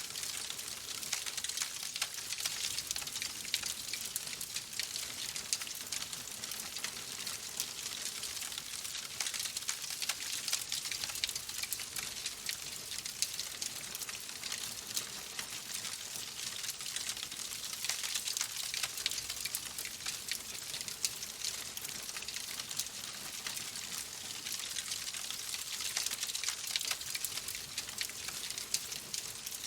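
Fireplace fire crackling: a steady hiss dotted with many small, quick pops and snaps.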